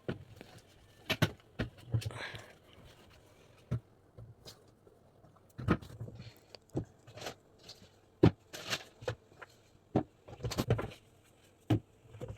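Irregular knocks and taps from vegetables being handled on a kitchen counter while they are dried, with a brief rustle about two seconds in.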